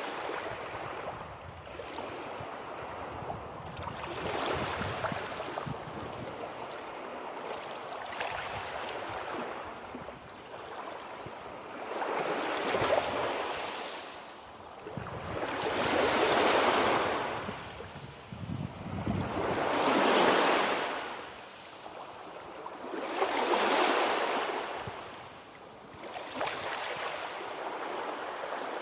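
Sea waves breaking on the shore, each wash swelling and fading every three or four seconds, with four larger surges in the second half.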